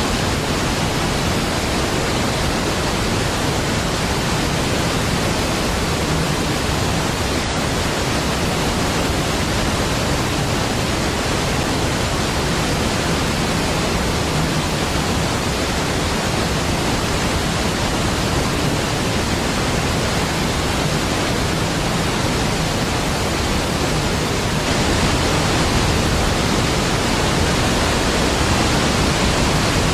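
Large waterfall: a deep, steady, even rush of falling water, rising slightly in level near the end.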